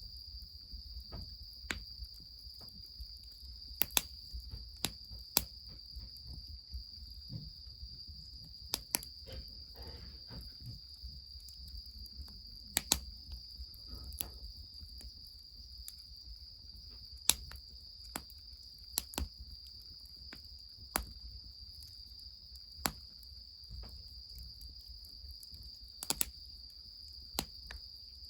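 Insects trilling in one steady high continuous note, with sharp irregular pops and cracks from a burning wood fire scattered throughout, over a low steady rumble.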